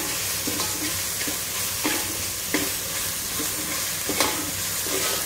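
Wet masala paste frying and sizzling in oil in a metal pot, with a metal ladle stirring it and scraping and knocking against the pot several times. The sizzle comes from the water still left in the paste as it is roasted.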